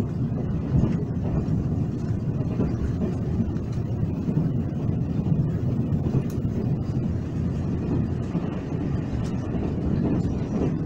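Steady low rumble of a Taiwan Railway (TRA) express train in motion, heard inside the passenger carriage.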